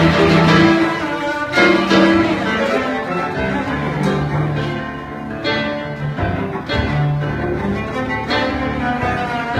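A cello played with a bow, drawing long sustained low notes while another musician plays along.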